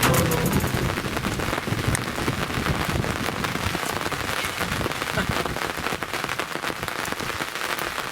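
Steady rain falling, a constant hiss of many small drop ticks.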